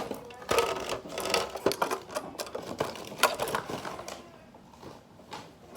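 Irregular run of small clicks, taps and rustles: small fingerboard toy parts and their packaging being handled.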